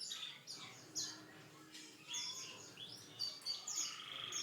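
Domestic canary singing a fast song of repeated high, downward-sweeping notes and trills, with a buzzy trill near the end.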